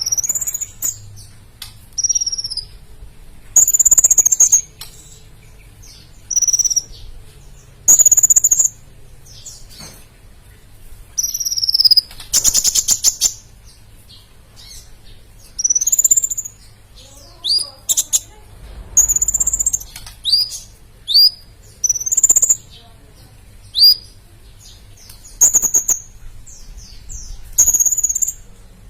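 A kolibri (sunbird) singing in short, high, thin phrases every second or two, many of them quick downward-sweeping notes, with a rapid trill about twelve seconds in.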